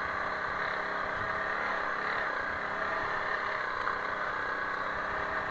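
Honda CRF300L Rally's single-cylinder four-stroke engine running steadily, with no change in pitch.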